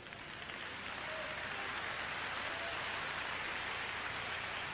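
Audience applauding in response to the preaching, building over the first second and then holding steady.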